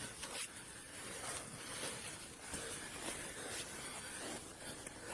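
Faint steady hiss with soft rustling and a few light clicks.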